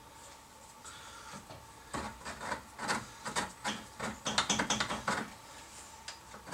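A quick flurry of small clicks and rattles from garage-door hardware being handled, starting about two seconds in and stopping about five seconds in, over a faint steady hum.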